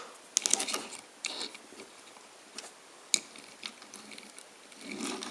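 Small die-cast metal toy vehicles being handled and set down, giving a few scattered light clicks and taps, most of them within the first second.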